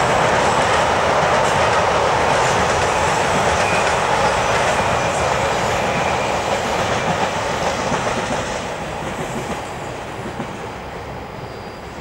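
Intermodal freight train's wagons rolling across a steel truss viaduct, with steady rumble and clickety-clack of the wheels. The sound fades as the tail of the train moves away in the second half.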